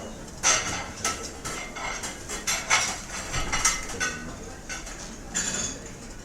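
Cutlery and dishes clinking and clattering in a series of short, irregular knocks over a steady background hum of restaurant ambience.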